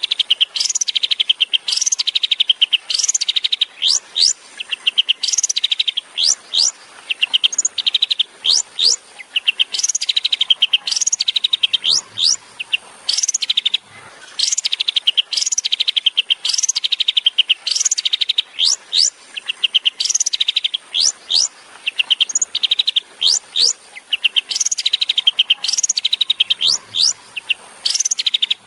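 Long-tailed shrike (cendet) singing a long run of rapid 'tembakan' phrases: each a sharp downward-sweeping note followed by a fast rattling trill, repeated many times with short breaks.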